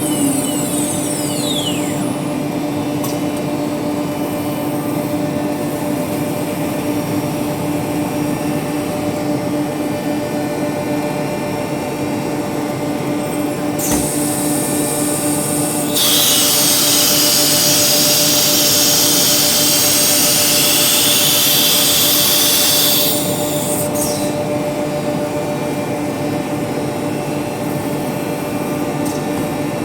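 Woodworking CNC router with an automatic tool changer running steadily with a constant hum while machining wood. A much louder high hiss comes in for about seven seconds midway. A falling whine sounds at the start and a rising whine near the end.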